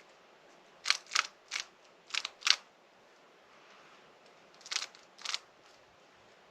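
Layers of a Rubik's cube being turned by hand, each turn a sharp clack: five in quick succession, a pause, then two more.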